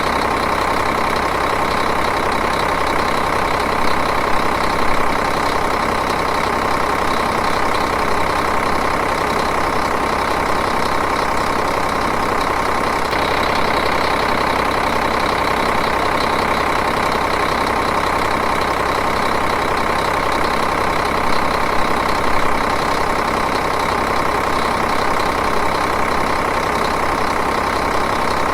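Diesel engine idling steadily, an even, unchanging running sound.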